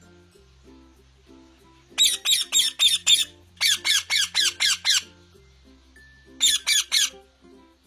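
Parrot squawking in three quick runs of short, harsh, loud calls, about five a second, over background music with a steady bass line.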